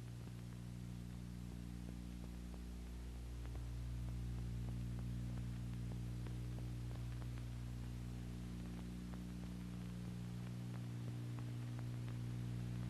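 Steady low electrical hum with faint background hiss and a few scattered faint crackles.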